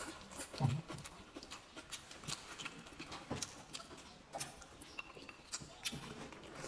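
Eating sounds: a person chewing fried pork and rice, with a run of irregular soft mouth clicks and smacks and a low thump just over half a second in.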